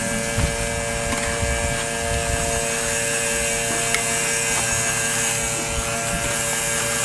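Small electric water pump running steadily with a constant motor hum as it pumps rainwater out of a drum through a hose.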